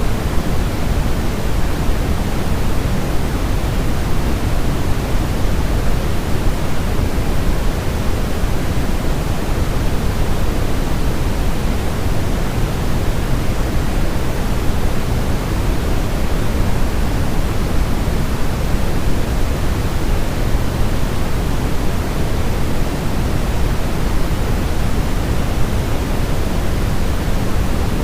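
Steady synthetic noise of the white-noise kind, even and unchanging, weighted toward the low end like pink noise, played to lull a baby to sleep.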